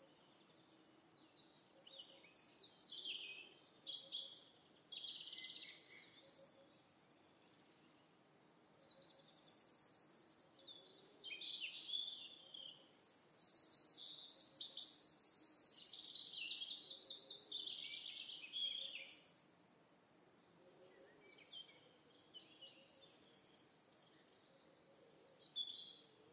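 Songbird singing outdoors in short, varied chirping phrases with pauses between them, and one longer run of warbles and trills in the middle.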